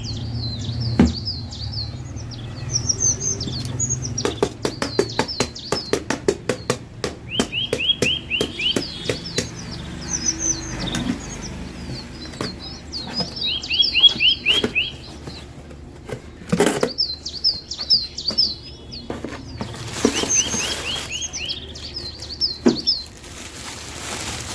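Birds chirping in recurring short series of quick rising notes, with a run of rapid clicks in the first half and two sharp knocks later on.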